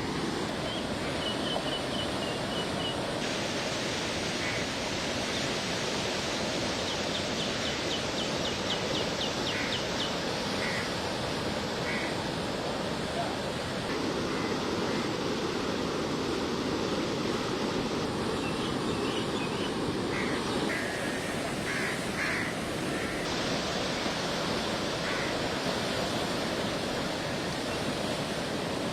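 Steady rushing noise of wind and rough water, changing abruptly at several cuts between clips, with faint short high chirps and peeps now and then.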